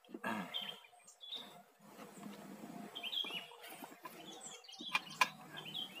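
Wild birds chirping, scattered short high calls every second or so, over soft rustling, with a sharp click about five seconds in.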